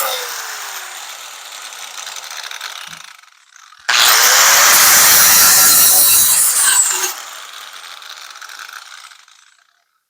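Power grinder working on sheet-metal truck bed panel. It winds down at first, starts up again about four seconds in, grinds for about three seconds, then is released and spins down to a stop.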